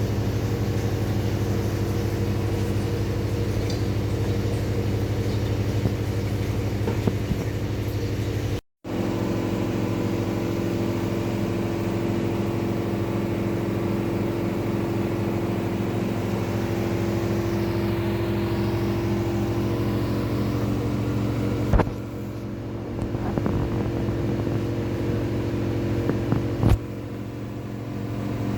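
Rex-Electrolux RJ 7160 TA washing machine's drum motor running with a steady hum, a couple of sharp clicks later on as the level drops.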